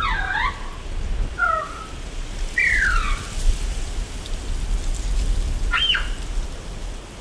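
Birds calling: a short warbled phrase at the start, a couple of brief notes, a falling whistle about two and a half seconds in, and a sharp high note near the end, over a steady low rumble.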